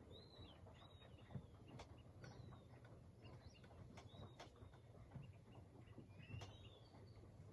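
Faint birds chirping: short, high chirps and slurred whistles every second or so, over a steady low hum and scattered small clicks.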